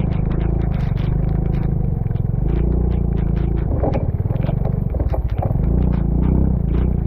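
A vehicle engine running steadily on the move, its note wavering a little past the middle. Frequent sharp ticks and knocks sound over it throughout.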